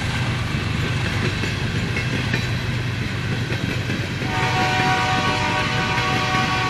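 Empty military flatcars of a freight train rolling past, with steady wheel-on-rail rumble and clatter. About four seconds in, a loud, steady, high tone made of several pitches comes in and holds.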